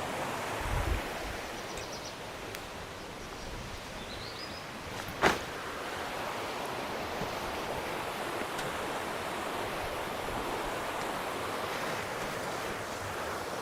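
Steady rushing outdoor noise, like running water or wind, with a low thump about a second in and one sharp knock about five seconds in.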